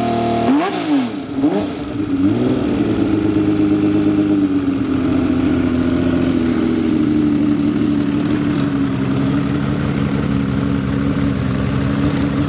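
Honda CBX 1000's air-cooled inline six-cylinder engine blipped several times in quick succession, each rev rising and dropping back, then settling into a steady, even run.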